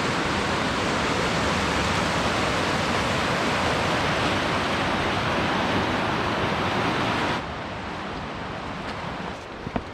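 Steady rush of falling river water that drops suddenly to a quieter hiss about seven seconds in, with a few faint clicks near the end.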